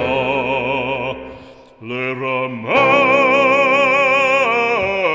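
Operatic singing of a French hymn: a held note with wide vibrato, a short dip about a second and a half in, then a slide up into a long, loud held note that steps down near the end.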